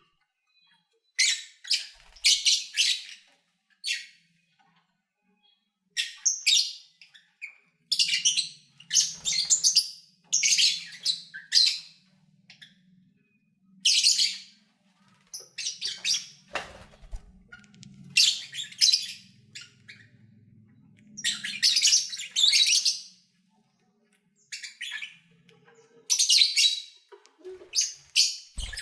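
Pet lovebirds calling: shrill, high-pitched chirps and squawks in bursts of about a second, repeated over and over with short pauses between.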